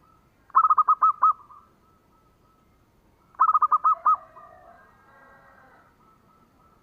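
Zebra dove (perkutut) cooing: two quick bursts of about six short, clipped notes, about three seconds apart. Fainter bird calls follow the second burst.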